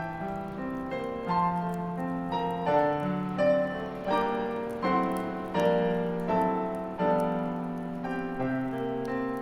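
Solo piano playing a gentle Christmas-song arrangement, notes and chords struck at an unhurried pace, with faint crackles of a bonfire underneath.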